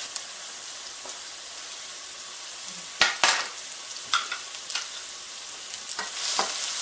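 Chopped green onions sizzling in hot cooking oil in a frying pan, a steady high hiss. A few sharp clacks break in, the loudest a quick pair about three seconds in, and a wooden spatula starts stirring near the end.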